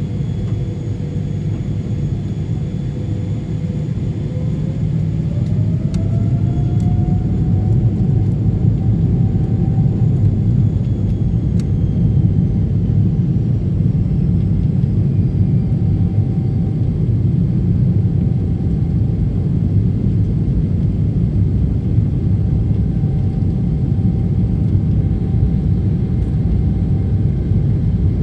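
Jet airliner engines heard from inside the cabin during takeoff: a steady heavy rumble that grows louder over the first several seconds as a whine rises in pitch while the engines spool up, then holds.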